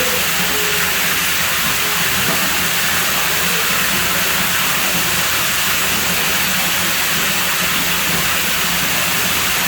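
Water running steadily: a loud, even rushing hiss with no break.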